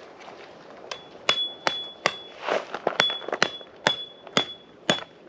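Repeated sharp metallic strikes, about two a second, starting about a second in. Each strike leaves a brief high ring, like metal hitting metal.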